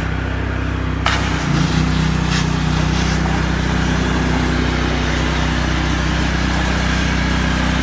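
Pressure washer's gasoline engine running steadily. About a second in, the spray starts with a sudden hiss that carries on, and the engine note shifts briefly as it takes the load.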